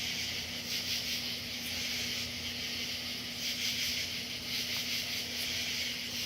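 Steady background hiss with a faint low hum underneath.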